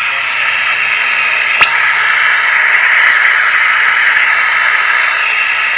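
Steady static hiss from a CB radio receiver on 27.555 MHz with no station transmitting, the band noise between transmissions. One sharp click about a second and a half in.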